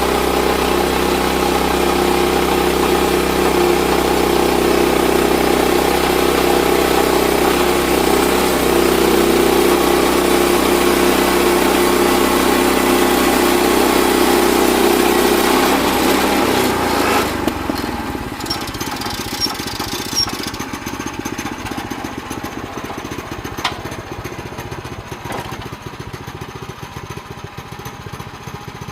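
Sawmill's small engine running steadily at high speed, then dropping back to a lower, rougher idle about 17 seconds in.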